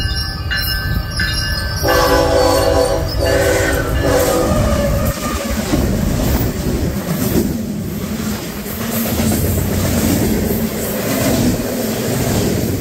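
Passing train: a bell rings in a steady repeat, then the locomotive horn sounds two chord blasts about two seconds in, and the train runs by with a rumble and wheel clatter on the rails.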